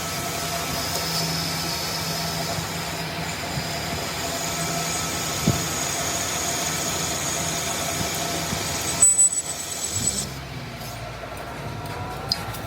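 A motor or engine-like machine running steadily with a hum, with a few loud knocks about nine seconds in, after which the sound is quieter.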